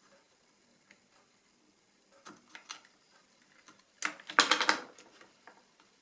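Light plastic clicks and taps, then a short dense clatter of clicks about four seconds in, as the solar panel is worked loose from the small portable radio's plastic case.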